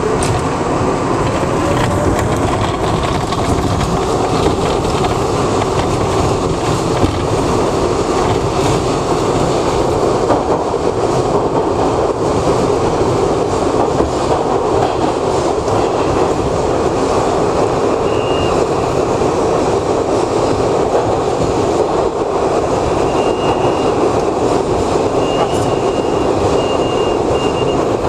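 New York City subway train of R62A cars running at speed, heard from on board: a steady rumble and rattle of wheels on track. Near the start a motor whine rises in pitch, and in the second half come several short, high wheel squeals.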